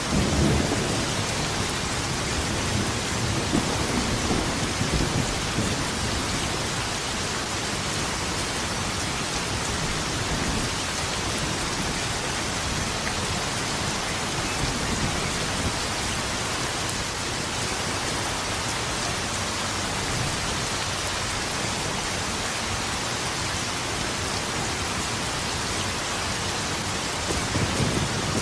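Steady heavy rain hissing, with low rolling thunder rumbling through the first few seconds and again near the end.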